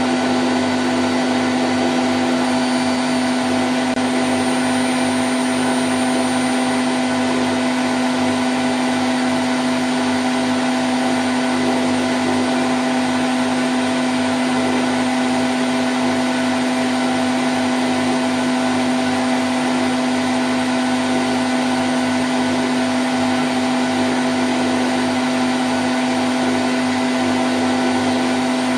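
Candy Grand O' F106 front-loading washing machine on its spin cycle at 1000 rpm: a steady whirr of the spinning drum and motor with a constant hum, unchanging throughout.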